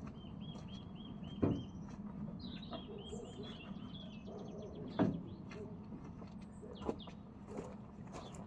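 Small birds singing: a quick run of about eight repeated high chirps, then more twittering. A few sharp knocks come through, the loudest about one and a half and five seconds in.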